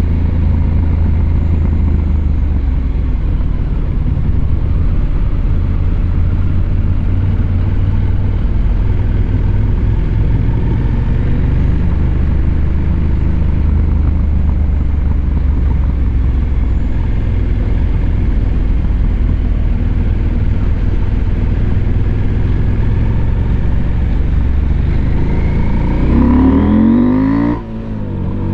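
Husqvarna Norden 901's parallel-twin engine running under a rider at a steady pace. Near the end the revs climb fast, drop sharply for a gear change, and pick up again.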